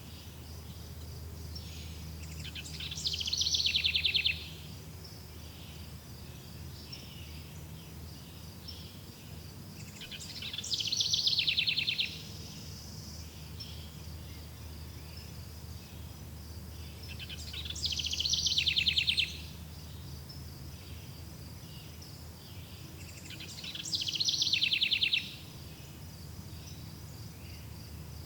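A songbird sings the same phrase four times, about every seven seconds; each phrase lasts about a second and a half and ends in a fast trill. Under it runs a steady high insect buzz and a low background rumble.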